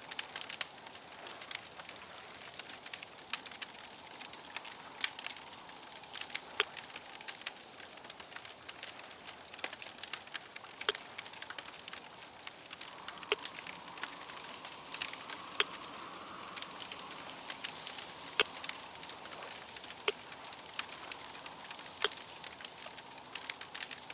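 Wood fire crackling, with irregular sharp pops and clicks over a soft steady hiss. A faint hum swells briefly in the middle.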